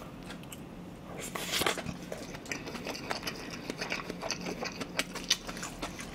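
Close-miked eating of Spam kimchi fried rice. A mouthful is taken off a wooden spoon about a second and a half in, then chewed with many small clicks and smacks.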